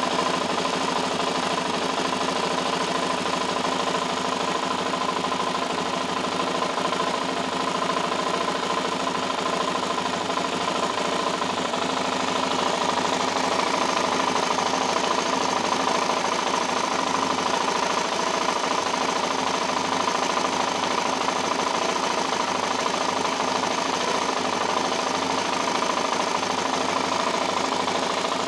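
Suzuki LTZ400 ATV's single-cylinder four-stroke engine idling steadily, with a rapid ticking noise in its running.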